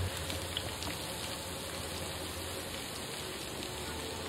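Onions and garlic frying in a camp oven: a steady sizzle with no breaks.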